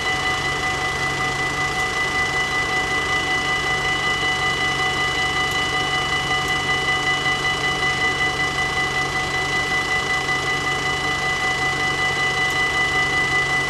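Electric warning bells of a Dutch AHOB level crossing ringing steadily, in a fast even ring of about four strikes a second, over a faint low engine hum.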